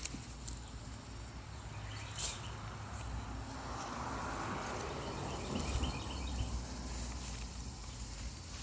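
Soft rustling and scraping of soil and straw as potatoes are dug out of the bed by hand, swelling in the middle, with a few light clicks and a low steady rumble of wind on the microphone.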